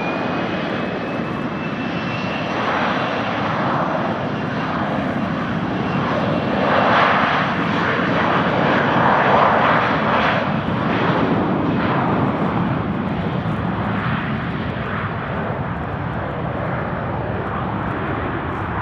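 Gulfstream IV jet landing, its Rolls-Royce Tay turbofans heard as a high whine that rises slightly in pitch at the start, under a rushing jet noise that swells to its loudest around the middle and then eases off.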